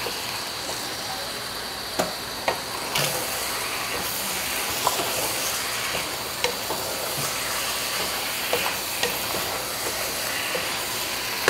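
Marinated chicken pieces sizzling in hot oil in a cooking pot, a steady frying hiss that grows louder about three seconds in, with a few light clicks scattered through it.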